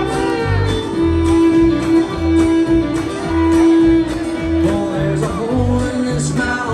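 Live acoustic country-bluegrass band playing an instrumental break: acoustic guitar keeping a steady rhythm over alternating bass notes, with a fiddle line that holds one long note through the middle.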